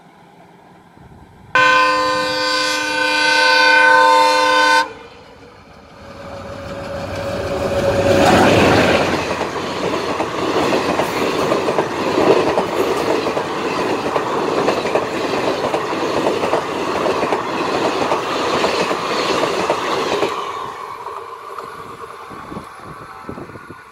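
An ALCO diesel locomotive's multi-tone horn sounds one long chord of about three seconds and cuts off sharply. Then an express train passes close at speed, the coaches' wheels clattering rapidly over the rail joints, and the sound fades as the train draws away.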